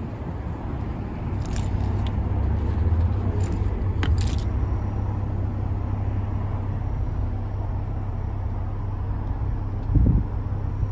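A BMW M440i's turbocharged straight-six idling, a steady low hum heard from inside the cabin. A few light clicks sound in the first seconds and a low thump comes near the end.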